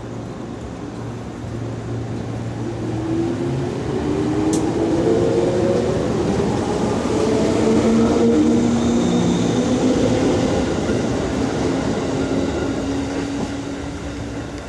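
Electric passenger train pulling away from the station and running past: its motor whine rises in pitch in steps as it gathers speed, with wheels on the rails, loudest about halfway through and easing off near the end.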